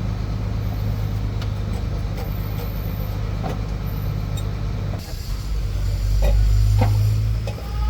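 A motor vehicle engine running steadily at a low hum, with scattered light metallic clicks. About five seconds in the sound switches abruptly to a louder, deeper engine rumble.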